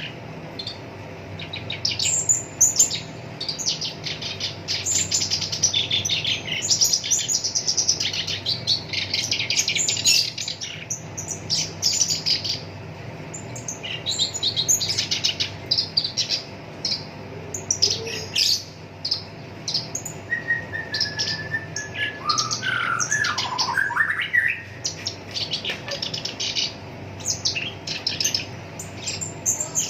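Black-browed reed warbler singing a fast, harsh chattering song in long runs of rapid notes, with a lower gliding phrase about twenty seconds in. A faint steady hum runs underneath.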